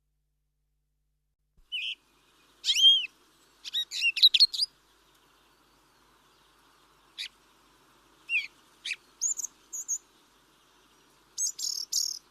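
Wild birds calling: after a brief silence, irregular bouts of quick high chirps and short sweeping whistled notes, some in fast runs, over a faint steady background hiss.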